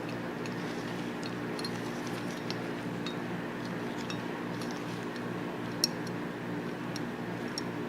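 Small metallic clicks and light clinks of steel Tokarev TT-33 pistol parts being handled and fitted together, with one sharper click about three quarters of the way through, over a steady low hum.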